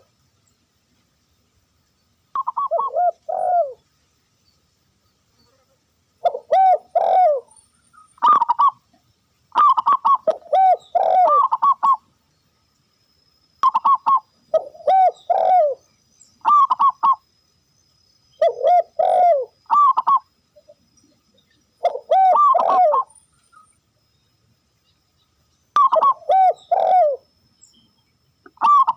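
Dove cooing in repeated phrases of several falling notes, about ten phrases with short pauses between them, the calls used in luring wild doves.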